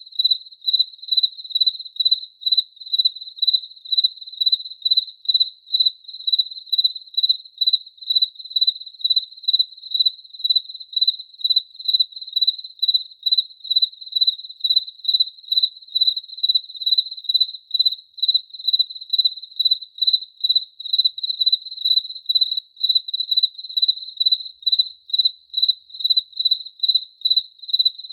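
Cricket chirping: a single high, pure-toned chirp repeated in a steady, even rhythm of about two a second.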